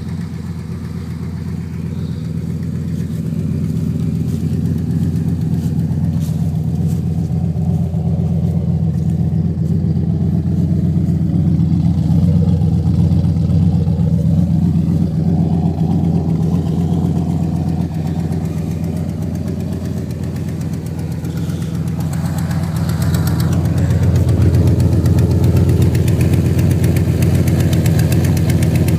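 Turbocharged 1990 Ford Mustang LX engine idling steadily, getting somewhat louder about two-thirds of the way through. The exhaust has a leak, which the owner believes is loose bolts where the 3-inch exhaust joins the downpipe after the turbo.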